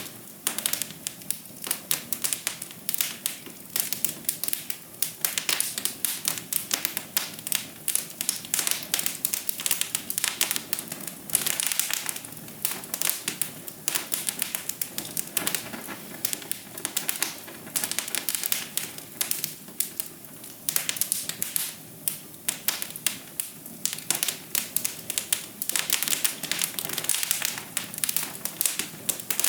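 Wood fire in a fireplace crackling steadily, with a dense run of sharp pops and snaps over a soft hiss.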